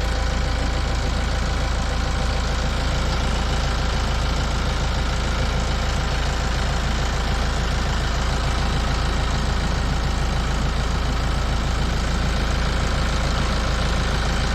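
Tractor engine running steadily, an even, unchanging drone with strong low end.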